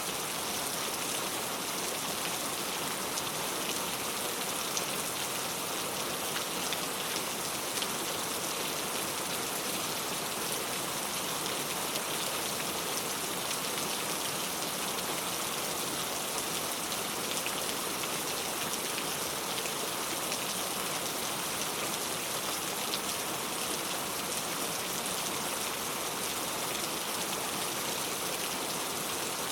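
Heavy rain falling steadily, a dense even hiss of many drops pattering on surfaces.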